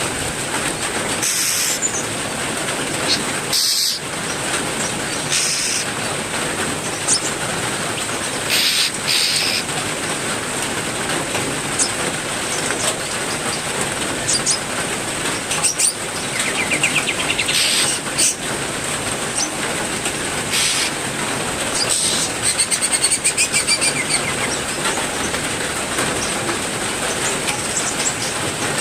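Heavy rain falling steadily, with aviary songbirds giving short high chirps throughout, a rising trill about halfway through and a rapid buzzy call a little later.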